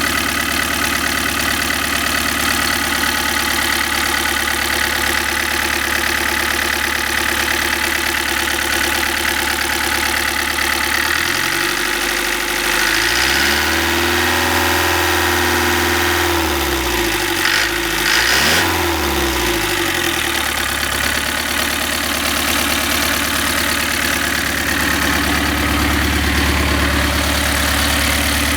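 GM Opel 2.3 diesel engine in a Bedford CF230 van idling steadily. About halfway through it is revved up and held for a few seconds, blipped up and down once more, then drops back to idle.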